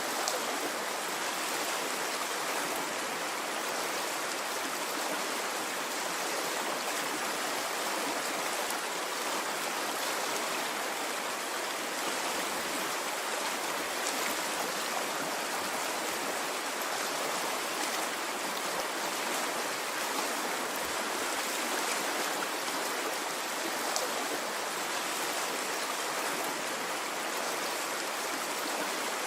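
Water of a stream flowing and splashing steadily, an even rushing with no rise and fall of waves.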